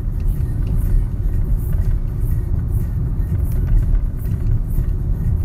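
Steady low road rumble of a car heard from inside the cabin while driving, the engine and tyres making an even drone.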